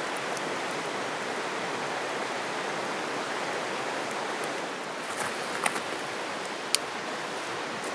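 Steady rushing of a stream, with a few sharp clicks between about five and seven seconds in.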